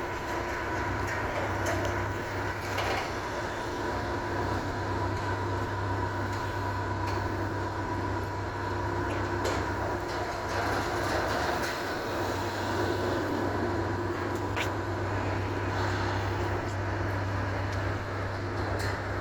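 Steady mechanical hum: a low drone with a fainter steady whine above it, and a few light clicks scattered through.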